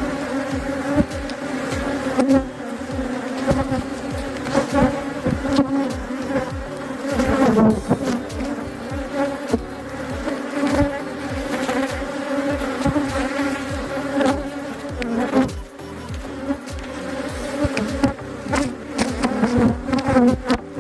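Honeybee colony buzzing loudly and steadily around an opened hive, with frequent short low thumps throughout.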